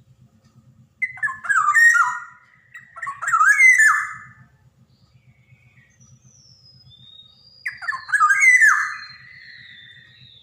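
Black-naped oriole calling: three loud, harsh phrases of sweeping notes, about a second in, near the middle of the first half, and again about eight seconds in. Thin high whistles slide downward between the last two phrases.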